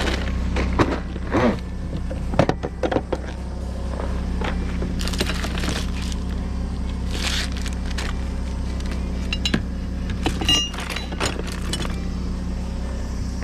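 Kubota KT215 tractor engine idling steadily, with scattered metallic clinks and knocks from parts or tools being handled, bunched about a second in and again near ten seconds.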